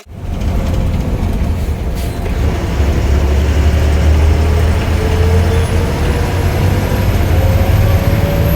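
A heavy bus running on the move, with a loud low rumble and a thin whine that slowly rises in pitch.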